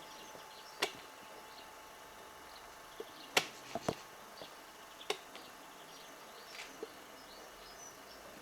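Several sharp, separate clicks or taps, loudest a little past the middle, over faint, scattered high-pitched bird chirps.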